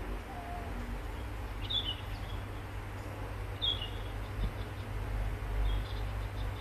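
Outdoor ambience: a small bird chirps three times, each call a short falling note, about two seconds apart, over a steady low rumble.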